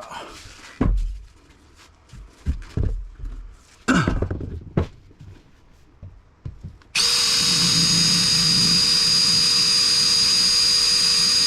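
A few handling knocks and clunks, then about seven seconds in a power drill starts abruptly and runs steadily with a high whine, drilling into the air conditioner's compressor to drain its oil.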